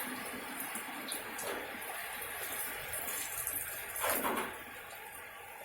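Steady rain falling, with drips and splashes, and a brief louder swell about four seconds in.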